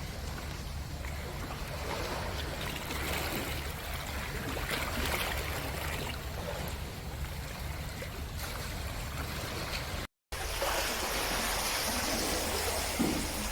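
Steady rushing and trickling of water, cutting out for a moment about ten seconds in.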